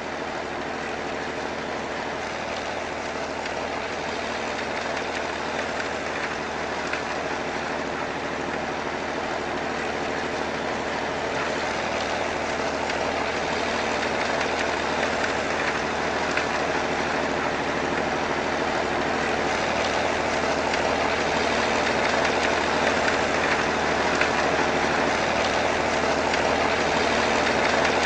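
A heavy vehicle's engine running steadily with a rushing noise over it, growing gradually louder.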